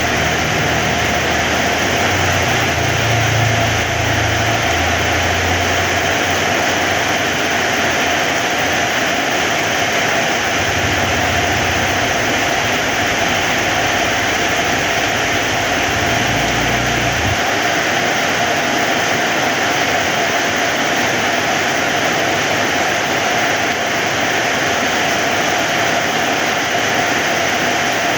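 Heavy rain falling steadily, a dense even hiss. A low rumble runs underneath and stops abruptly a little past halfway.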